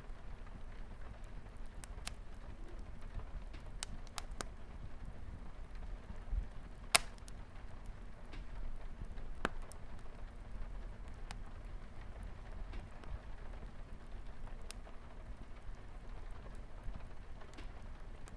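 Wood fire crackling in a fireplace, with irregular small pops and one sharp, loud pop about seven seconds in, over a steady patter of light rain on a window.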